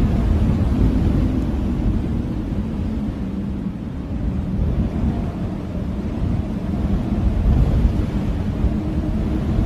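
Blizzard wind blowing in a steady low rush, easing a little in the middle and swelling again near the end.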